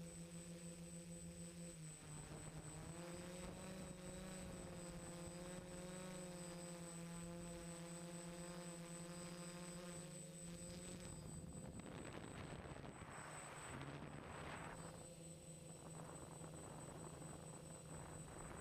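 Multirotor drone's motors and propellers humming steadily, the pitch shifting slightly now and then, over a thin high whine. About two-thirds of the way through, a rushing noise comes in in waves over the hum.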